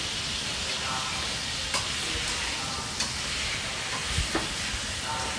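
Food sizzling in a pan on a gas burner while it is stirred with long chopsticks, a steady hiss broken by a few light clicks of the chopsticks against the pan.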